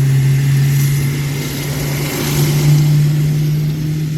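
Jet airliner engines running close by: a steady low drone under a broad rushing hiss that swells slightly around the middle.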